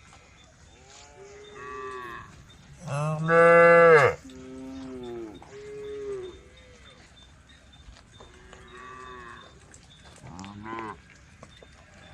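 Cows mooing, a string of calls one after another, about seven in all; the longest and loudest call comes about three seconds in.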